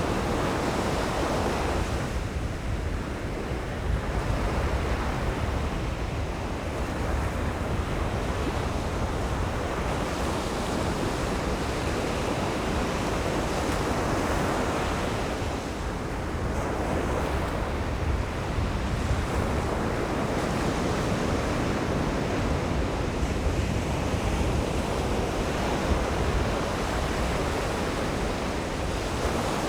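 Ocean surf breaking and washing up the beach, swelling and easing every few seconds, with a low wind rumble on the microphone.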